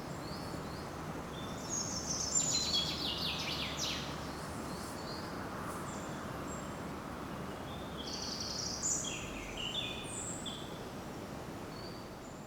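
Songbirds singing over a steady forest background hiss. Two bursts of quick, high, falling notes come about two seconds in and again around eight seconds in, with a few short chirps between them.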